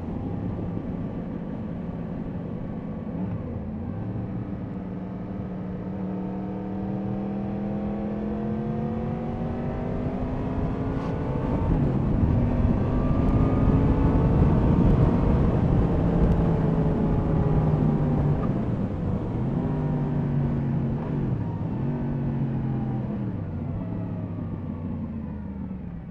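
Yamaha MT-10 SP's crossplane inline-four engine under way, its pitch climbing slowly over the first half, with wind noise loudest around the middle. Later the engine pitch dips and rises again several times before falling off and quietening near the end.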